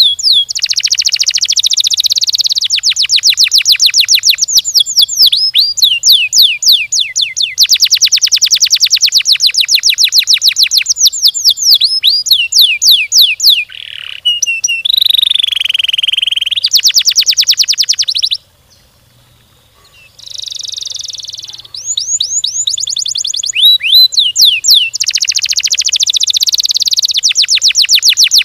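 Domestic canary singing long, rapid trills: strings of fast repeated high notes and quick sweeping notes, with one short pause about 18 seconds in.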